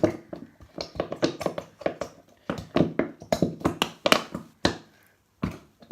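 Spoon stirring sticky slime glue in a bowl: a run of irregular taps and wet clicks, several a second, pausing briefly near the end.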